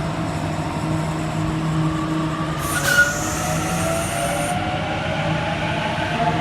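Waratah (A set) electric train pulling away from the platform, its motors whining in several slowly rising tones as it gathers speed. A burst of hiss with a sharp click comes about halfway through.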